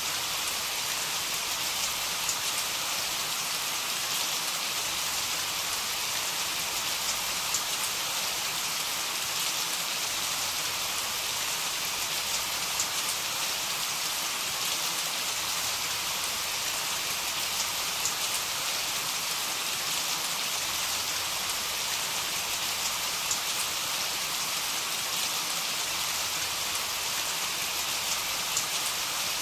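Heavy rain falling steadily: a dense, even hiss with scattered individual drop ticks. No thunder.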